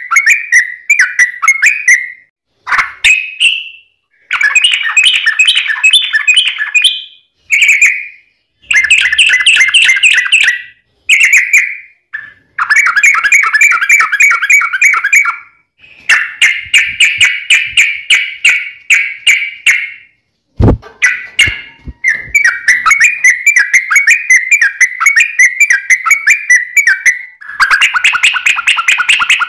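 Yellow-vented bulbul (trucukan) singing long, rapid chattering trills, phrase after phrase with short pauses between. A brief click about two-thirds of the way through.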